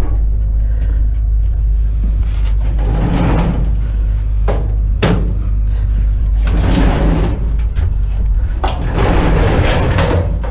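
Several knocks and rattling bursts of clatter over a steady low rumble.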